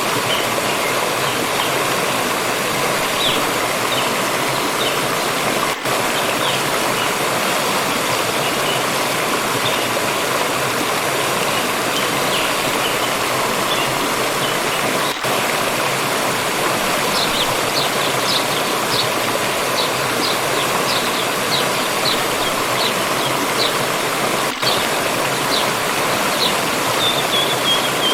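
Water stream rushing steadily over rocks. Small birds chirp faintly through it, with a quicker run of repeated chirps in the second half.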